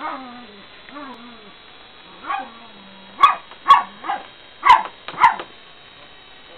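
A dog whining in a few short calls that fall in pitch, then barking five times in quick succession from about three seconds in.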